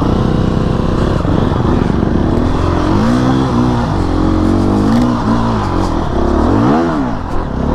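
Husqvarna 350 dirt bike engine running steadily, then revved up and back down five or six times as it tries to climb a muddy hill and fails to get up it. The rider puts the failure down to the tires.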